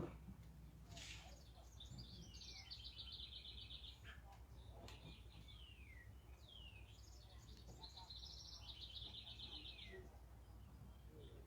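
Faint songbirds singing in a back yard: two trilled phrases lasting about a second and a half, each ending in a downward slide, and several short whistled notes sliding down in pitch, over a steady low rumble.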